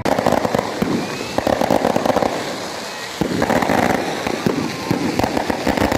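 Strings of firecrackers going off in loud, rapid, irregular crackling, in clusters of a second or so, setting off abruptly at the start.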